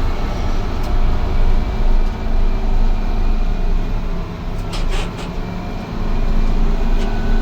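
1988 Amertek 4x4 fire truck's engine running steadily as the truck is driven, with a couple of sharp clicks about five seconds in.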